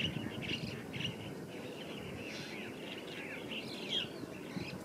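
Small birds chirping repeatedly in short high notes, with a few sliding calls about three to four seconds in, over a low steady background noise.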